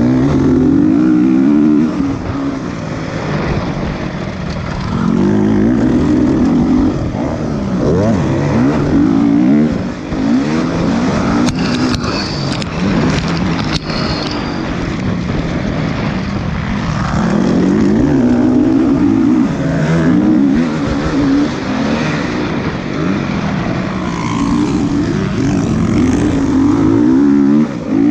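Motocross dirt bike engines revving up and down, their pitch rising and falling again and again.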